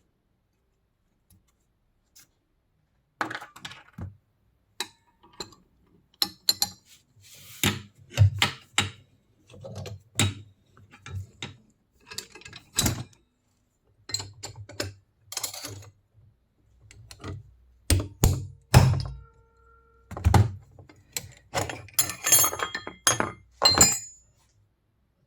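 Metal parts and hand tools being handled and set down: irregular knocks, clinks and thunks, starting about three seconds in.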